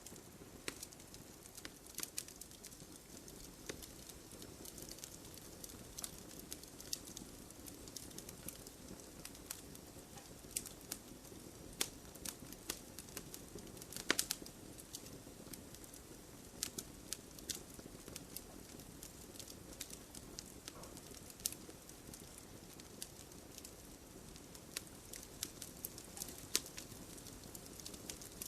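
Wood fire crackling: irregular sharp pops and snaps over a low steady hiss, with a louder cluster of pops about halfway through.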